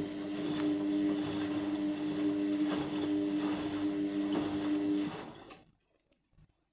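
Indesit MyTime washing machine's drum motor running with a steady hum as the drum turns slowly during a bedding rinse, with a few light knocks from the tumbling load; it winds down and stops about five seconds in.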